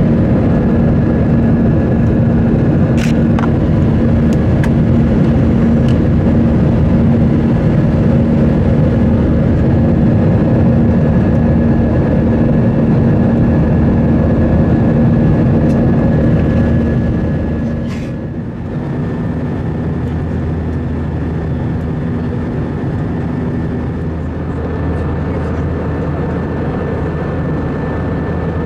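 Steady jet engine and airflow noise inside the cabin of an Airbus A320, with a low hum and a faint high whine. A couple of sharp clicks break in, and about two-thirds of the way through the noise drops slightly and the low hum shifts lower.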